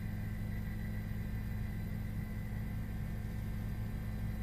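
Steady low hum with a faint hiss, with nothing else standing out.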